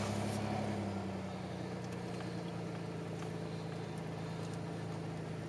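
1991 Ford Ranger plow truck's engine running steadily under way, a low even drone that eases slightly about a second in.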